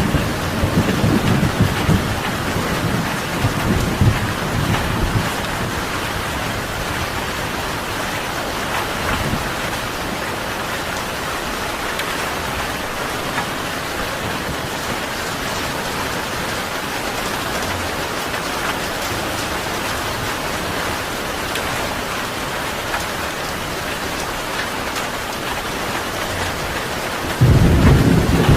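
Steady heavy rain, with low thunder rumbling through the first few seconds and fading. Near the end a fresh, louder thunder rumble starts abruptly.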